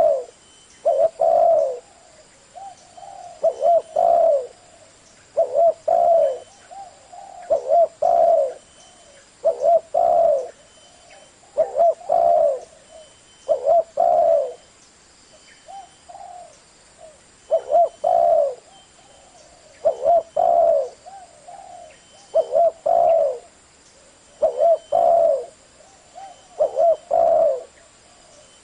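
Spotted dove cooing in the deep 'thổ' voice, a short phrase of two or three low coos repeated about every two seconds, used as a lure call to stir up wild doves.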